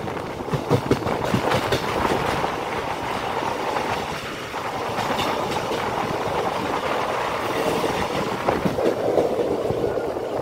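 Passenger train running at speed, heard from inside a coach at an open window: a steady rush of rolling noise, with a quick run of wheel clacks over rail joints in the first couple of seconds.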